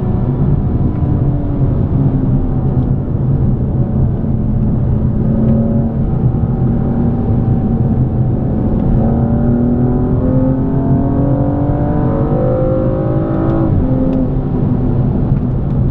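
BMW M235i's 3.0-litre turbocharged straight-six running under way. The pitch holds fairly steady at first, then rises as the car accelerates from about nine seconds in. It drops sharply near the end at an upshift and then keeps pulling.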